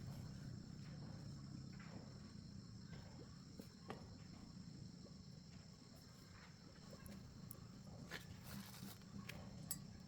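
Faint background: a steady high insect drone and a low hum, with a few light clicks.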